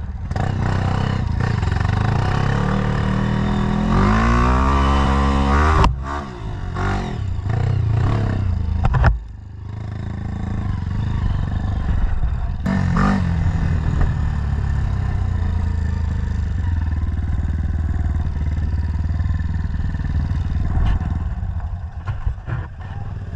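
Dirt bike engine running close by, revving up with a rising pitch about four to six seconds in. The sound breaks off suddenly near six and nine seconds, then the engine runs on steadily.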